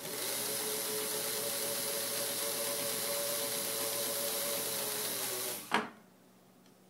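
Pfaff 130 sewing machine running at a steady speed, stitching through denim, with a steady motor whine and hiss. About five and a half seconds in it slows, its pitch dropping, and stops, followed by a single sharp knock.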